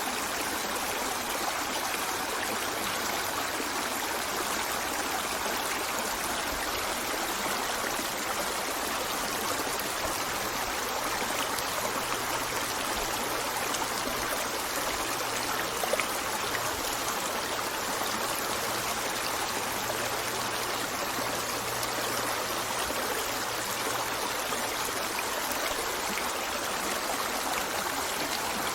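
River water flowing steadily, a continuous, even rushing with no change in strength. A single brief tick stands out about sixteen seconds in.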